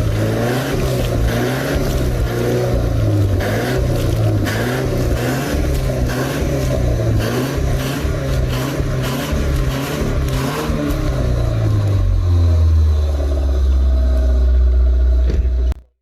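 Car engine revved up and down over and over with repeated throttle blips, blowing carbon deposits out through the exhaust during a carbon-flush treatment. About twelve seconds in, the revving stops and the engine settles to a lower, steady run. The sound then cuts off suddenly near the end.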